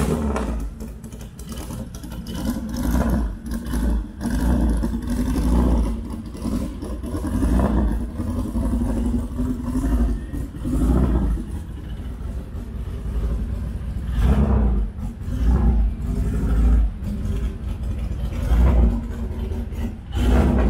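Fiat Abarth OT 1300 Periscopio's twin-cam four-cylinder engine being blipped as the car creeps along, its loud, penetrating exhaust note swelling and dropping back every two seconds or so.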